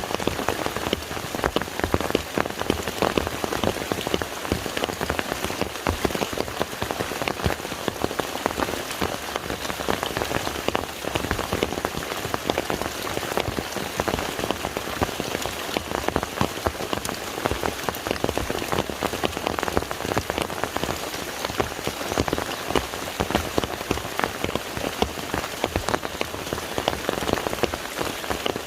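Rain falling on a lake: a steady, dense hiss of countless small drop impacts.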